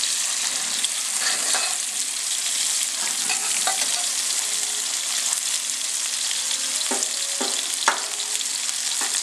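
Tofu and chicken pieces sizzling steadily in oil in a hot steel wok, with a metal spatula scraping and knocking against the wok a few times; the sharpest knock comes near the end.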